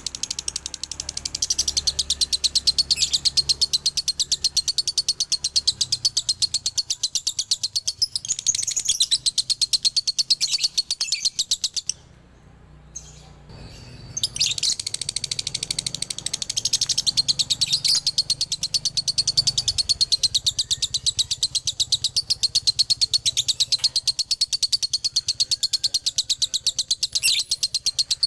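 Male lovebird singing its long 'dobelan' ngekek chatter: a fast, unbroken run of high chirps that breaks off for about two seconds near the middle, then resumes.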